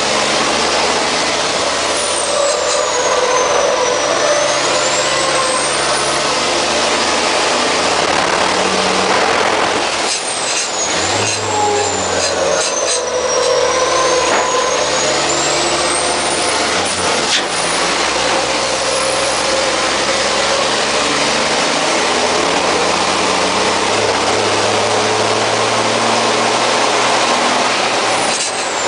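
MAN race truck's six-cylinder turbodiesel running hard under load, heard from inside the cab. The engine note breaks off briefly about a third of the way in and again past halfway, as gears change, and a high whistle falls and rises over the engine.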